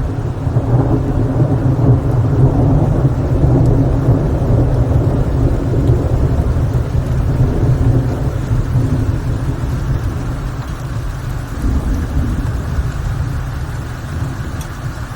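Steady rain with a long, low rumble of thunder that swells in the first couple of seconds, holds, and slowly dies away, with a smaller swell about twelve seconds in.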